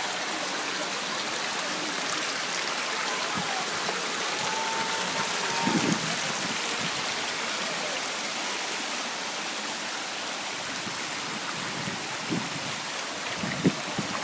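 Steady rush of the Cusarare waterfall: an unbroken hiss of falling water. A few brief low knocks come about six seconds in and again near the end.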